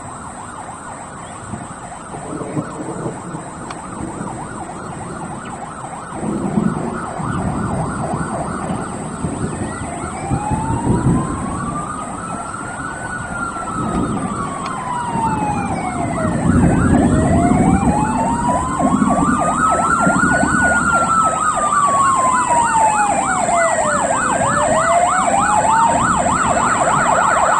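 Fire truck sirens. A fast yelping siren sounds throughout, and about ten seconds in a slow wail joins it, rising and falling twice. Both get louder as the truck approaches, over a low engine rumble.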